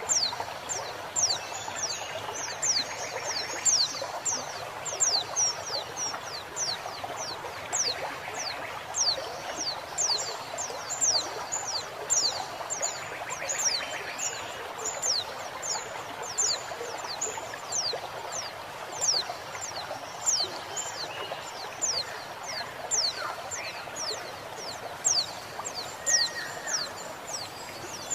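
Female white-eye (pleci) calling: thin, high, steeply falling notes repeated about two a second, over the steady sound of trickling, flowing water. A few lower notes from another bird come in near the end.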